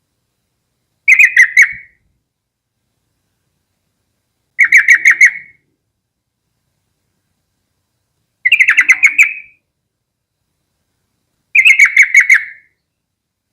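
Yellow-vented bulbul singing: four short bubbly phrases, each a quick run of notes lasting about a second, spaced three to four seconds apart.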